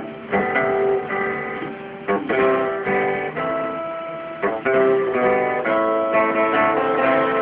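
Acoustic guitar strummed, playing chords as the opening of a song.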